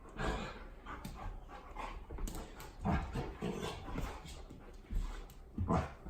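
A dog vocalizing in a series of short sounds, loudest about three seconds in and near the end.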